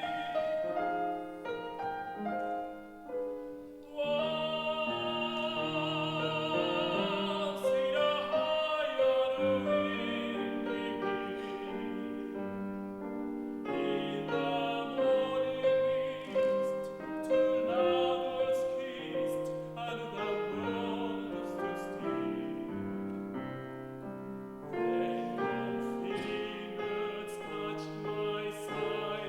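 A tenor singing a song in operatic style with a wavering vibrato on held notes, accompanied by a piano.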